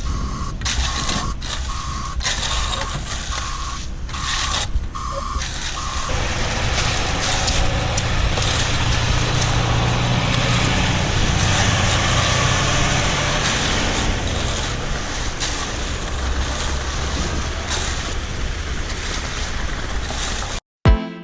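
A truck's reversing alarm beeping about twice a second over engine noise and wind; about six seconds in the beeping stops and the engine runs louder and steady under heavy noise.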